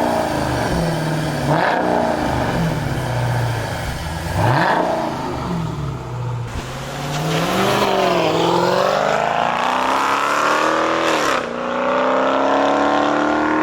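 Dodge Challenger 392's 6.4-litre HEMI V8 through a straight-piped exhaust, mid and rear mufflers removed with the catalytic converters kept. It is blipped three times in the first few seconds, then accelerates hard, the pitch climbing and dropping sharply at each gear change.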